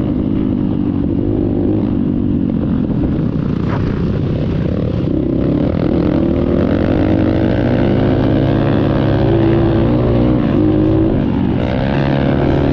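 Dirt bike engine running steadily, its pitch rising and falling with the throttle, including a clear rev-up near the end.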